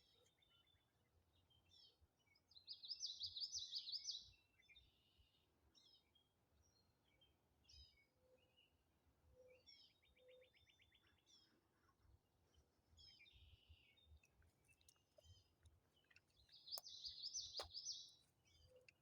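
Wild songbirds singing: scattered high chirps and short trills, with two louder trilled song phrases, one about three seconds in and one near the end. A few faint clicks among them.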